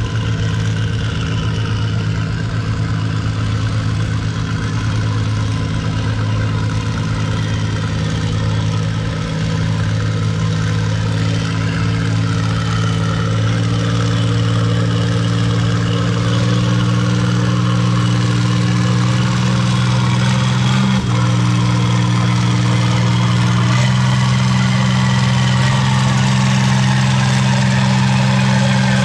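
Antique farm tractor engine running steadily under load as it pulls the weight sled, its note creeping up in pitch in the second half with two small steps up near the end.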